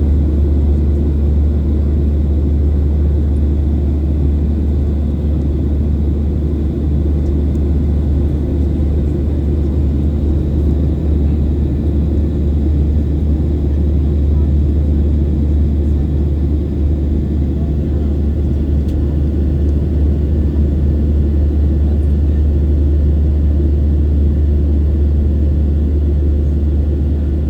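Steady low rumble of a Boeing 737's jet engines, holding an even level throughout.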